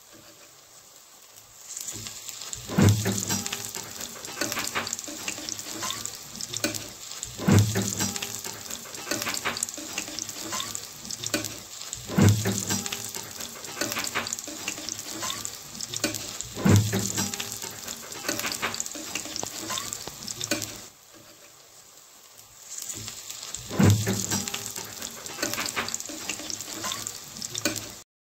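Gram-flour-battered August-tree (agathi) flower pakoras frying in hot oil in a nonstick pan: steady sizzling and crackling, with a louder clunk every four to five seconds as the slotted spatula turns them. The sizzle starts about two seconds in and drops out briefly about three-quarters of the way through.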